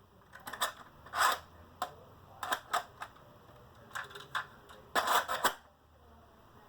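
Irregular clicks and clattering knocks in several quick clusters, the sound of a small object being handled; they stop about a second before the end.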